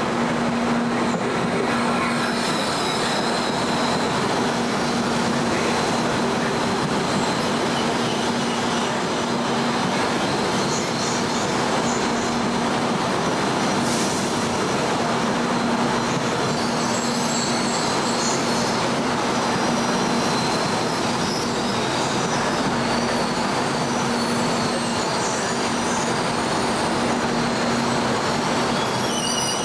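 A train rolling through the station, a steady loud rolling noise under a faint low hum. High-pitched wheel squeal comes and goes several times.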